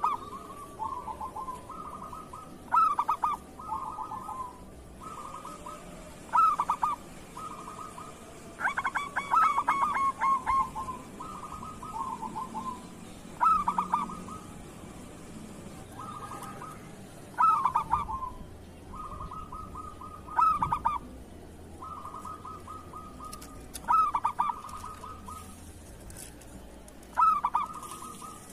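Zebra dove (perkutut) song: repeated rolling cooing phrases pitched around one note. A loud phrase comes about every three to four seconds, with softer trilled and held coos between.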